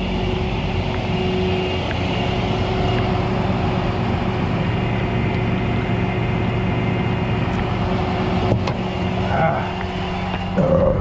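A vehicle engine idling steadily, with a single sharp click about eight and a half seconds in.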